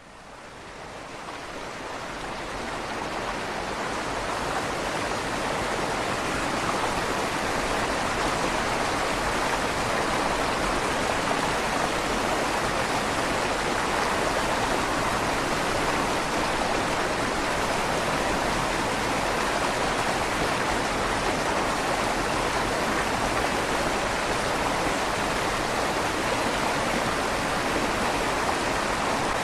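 River water rushing steadily through a stone bridge's tunnel, its echo coming back off the stone walls. It fades in over the first few seconds, then holds steady.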